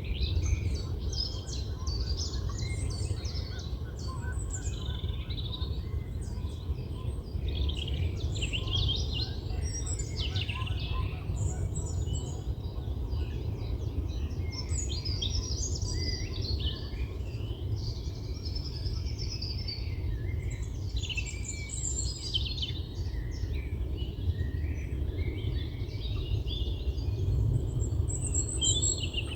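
Several songbirds singing and chirping at once, with short overlapping trills and calls throughout, over a steady low rumble.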